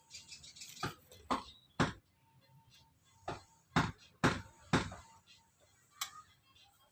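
About eight sharp knocks and taps at irregular spacing, from hand-working the strips for bird-cage spokes.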